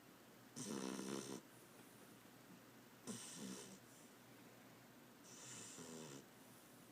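Beagle snoring in its sleep: three snores about two and a half seconds apart, each a low snore with a breathy hiss over it, the first the loudest.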